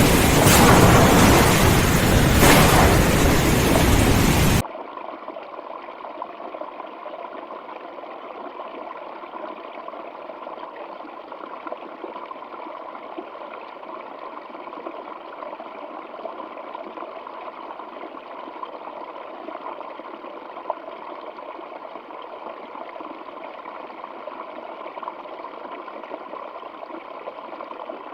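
A loud, full-range rushing crash for the first four or so seconds that cuts off abruptly, then water flowing in a stream as a steady, even rush.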